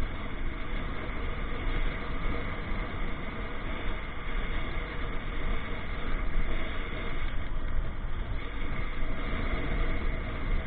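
Motorcycle on the move in city traffic: steady engine and road noise with a strong low rumble.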